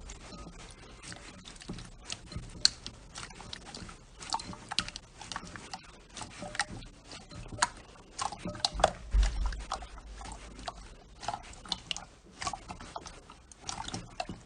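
Slime being squished and worked by hand, making a fast, irregular run of wet clicks and small pops, with a few louder pops about two-thirds of the way through.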